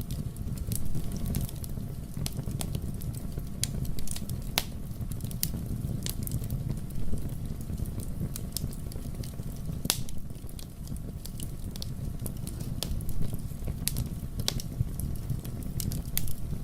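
Wood fire burning in a fireplace: a steady low rumble of the flames with irregular sharp crackles and pops, one louder pop about ten seconds in.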